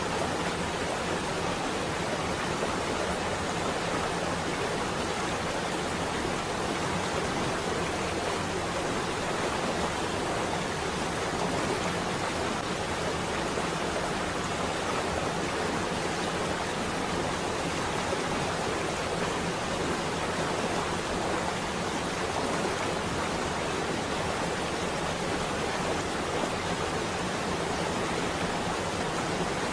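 Steady rain on a window: an even, unbroken hiss with no thunder.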